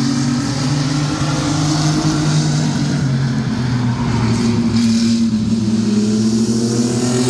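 Several mini truck race engines running at speed in a pack, pitch rising and falling gently as they go round.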